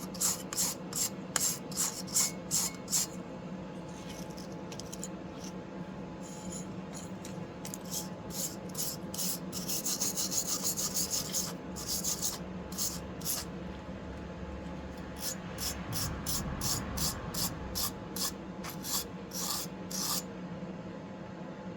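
Steel being scraped by hand in quick back-and-forth strokes, about two to three a second, as in filing or wire-brushing a forged steel leaf. A steady low hum runs underneath.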